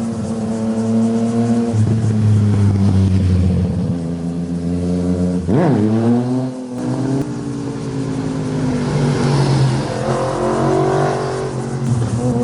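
Motorcycle engines running hard, their pitch stepping up and down as the riders accelerate and shift gears, with a quick drop and rise in pitch about five and a half seconds in and a rising rev a few seconds later.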